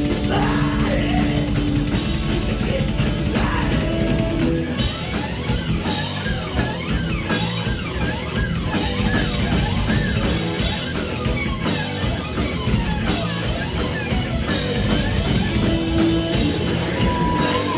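Rock band playing loud, heavy rock with electric guitar and drum kit. The drums and cymbals come in fully about five seconds in.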